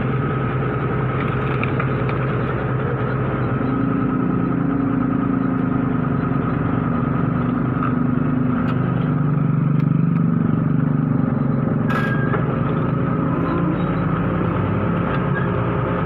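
Komatsu PC200-5 excavator's diesel engine running steadily, its note rising and wavering under hydraulic load from about four seconds in, with a single sharp knock about twelve seconds in.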